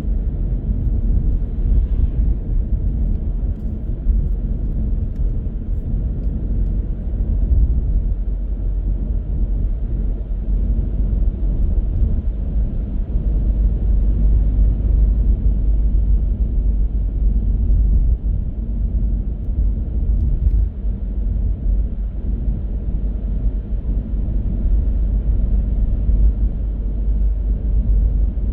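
Steady low rumble of a car being driven, from its tyres on the road and its engine, with no sudden events.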